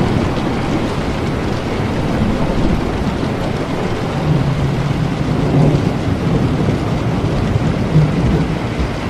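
Steady heavy rain with low rolling thunder rumbling underneath, swelling about halfway through and again near the end.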